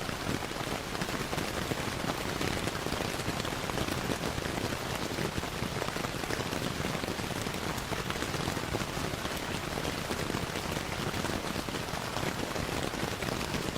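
Steady rain, a dense even patter of drops, mixed with the crackle of a fireplace.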